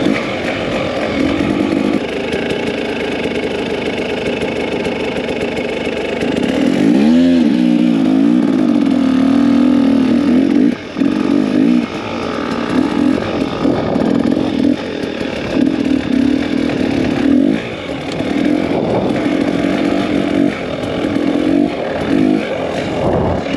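Two-stroke dirt bike engine running at low trail speed. It revs up and down about seven seconds in, then holds steady with repeated brief throttle cuts through the second half.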